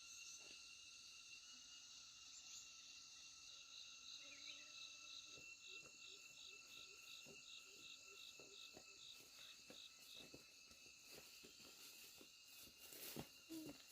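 Faint insect chorus: several steady high-pitched cricket trills, with a pulsing chirp repeating about three times a second from about four to ten seconds in, and a few soft clicks near the end.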